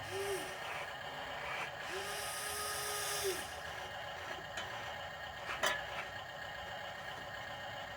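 Radio-controlled model dump truck running with a steady hum. There is a brief whir at the start, and a longer whir with a hiss about two seconds in that lasts over a second. A single sharp click comes past the middle.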